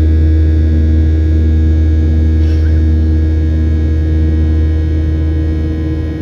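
Cabin noise of a Boeing 737-700 airliner in flight: a loud, steady deep drone of engines and airflow, with several steady tones over it.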